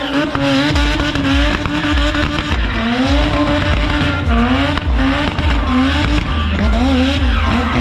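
A high-powered car engine revving hard during a burnout, its pitch climbing and dropping about once a second, with the hiss and squeal of spinning tyres.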